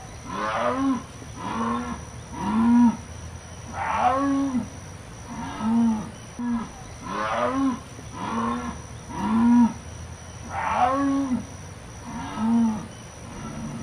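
Jaguar calling: a series of about a dozen rough grunting calls, roughly one a second, each rising and falling in pitch.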